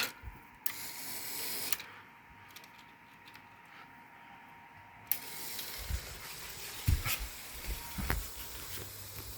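Small mechanical clicks, rattles and a few knocks from HO-scale model train cars and track being handled and set on the rails.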